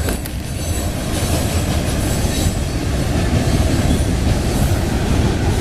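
Florida East Coast freight train's loaded rock hopper cars rolling past, a steady heavy rumble of steel wheels on the rails that grows slightly louder, with a faint high wheel squeal above it.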